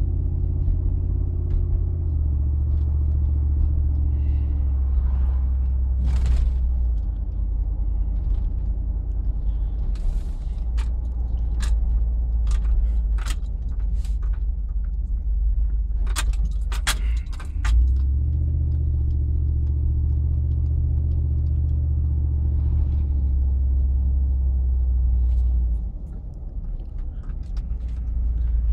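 A Dodge Durango's 5.9-litre V8 with a Hooker Aero Chamber exhaust, heard from inside the cabin while driving: a low, steady drone that changes pitch a few times as the speed changes. Scattered sharp clicks and rattles come through, mostly around the middle, and the drone drops off near the end as the truck slows.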